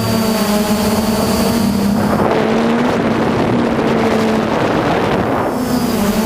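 Hexacopter's electric motors and propellers humming steadily, the pitch shifting a little as the motors adjust, with wind buffeting the microphone.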